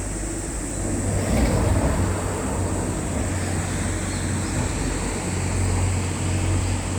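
An engine running steadily with a low hum, swelling a little about a second in.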